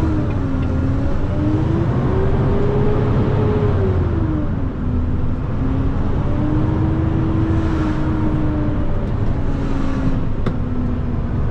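Semi truck's diesel engine heard from inside the cab as the truck pulls away, a deep steady rumble whose pitch rises and falls twice as it accelerates, with a brief dip near the middle. A single sharp click near the end.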